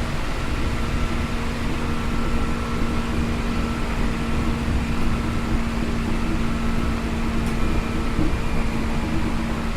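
Seibu New 2000 series electric train car, with field-chopper control, running at steady speed, heard from inside the car: a continuous rumble of wheels on rail with a steady hum from the traction equipment.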